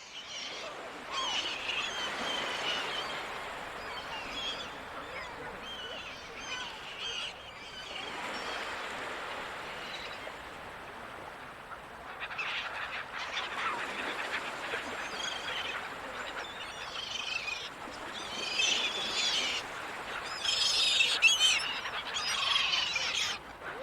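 Seagulls calling over the steady wash of ocean surf. The calls come throughout and are thickest and loudest near the end.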